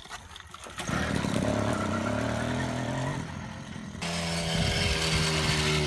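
Small motorbike engine starting up about a second in and running, rising a little in pitch, then settling into a steadier, even note about four seconds in.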